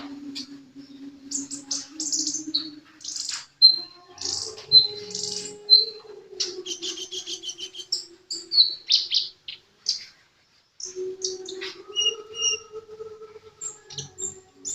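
Sunbird (Indonesian 'kolibri') singing busily in fast high chirps and trills with short whistled notes, pausing briefly about ten seconds in. A faint low steady hum runs underneath at times.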